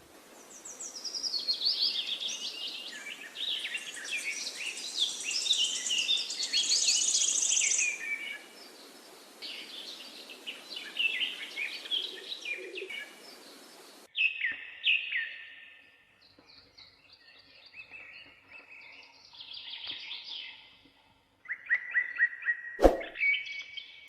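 Several small birds chirping and singing over one another. About halfway through the sound changes abruptly to sparser, quieter calls, and a single sharp click comes near the end.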